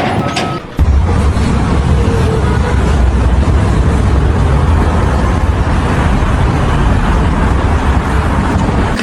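A reversing beep, then from about a second in a loud, steady, deep rumble of running heavy machinery.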